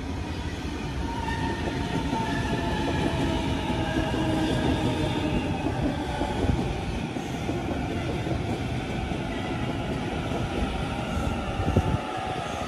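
Sydney Trains double-deck electric passenger train running past close by, with a steady rumble and a whine that slowly falls in pitch. A single sharp knock sounds near the end.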